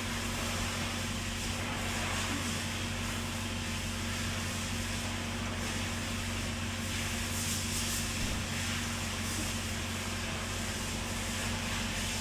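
Steady low hum with an even hiss from a running vehicle.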